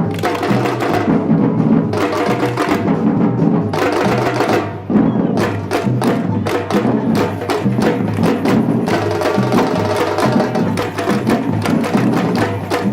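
Batucada samba percussion group playing a dense, driving drum rhythm, with a short drop in level about five seconds in.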